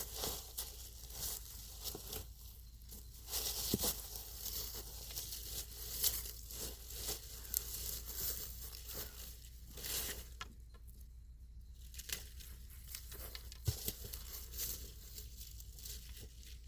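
Irregular rustling and crinkling, in uneven bursts, with a quieter gap about ten seconds in.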